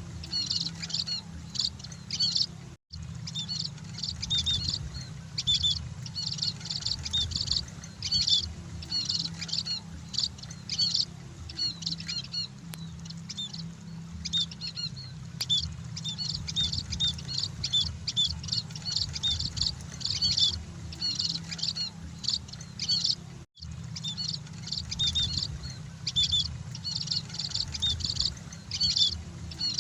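Munias (emprit) chirping: many rapid, overlapping short chirps, over a steady low hum. The sound cuts out for an instant twice.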